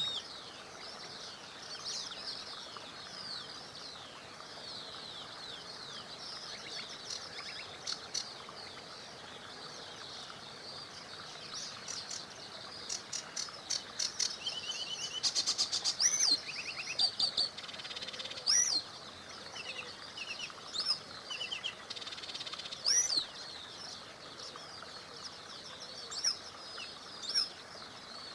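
Several songbirds chirping and singing: quick overlapping chirps, short rapid trills and sharp single calls, busiest through the middle. A faint steady rush of a small river runs underneath.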